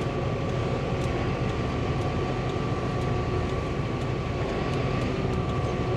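A 2005 John Deere sprayer's engine running steadily, with a thin, steady high whine over it.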